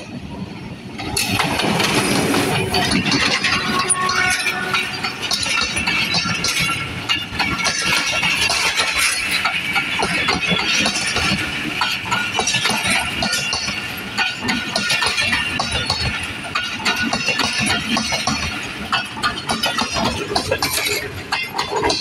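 Passenger train passing close at speed: the diesel locomotive goes by with a sudden loud rush about a second in, then a long string of coaches rumbles past with fast, irregular clicking and clattering of wheels on the rails.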